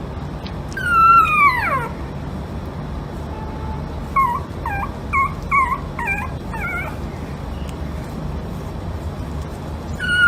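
A pet animal crying: one long call falling in pitch about a second in, then a run of about seven short, high calls, and another long falling call at the end.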